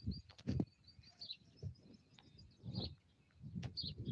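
A small bird chirping, short high chirps repeated about once a second. Faint low bumps come in between.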